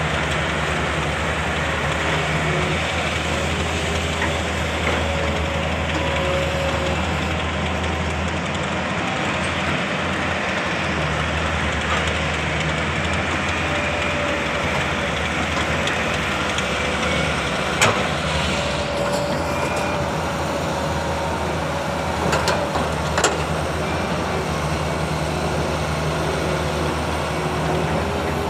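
Heavy diesel excavator engine running steadily at work, with a low steady drone. There is a sharp knock about two-thirds of the way in and two more shortly after.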